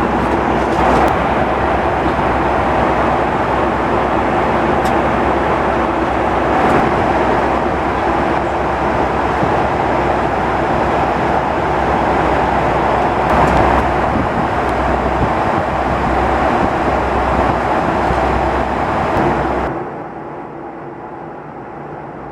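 Cabin noise of a Boeing 757-200 in cruise: a steady, loud roar of airflow and Rolls-Royce RB211 engines. Near the end it abruptly drops to a quieter, duller hum.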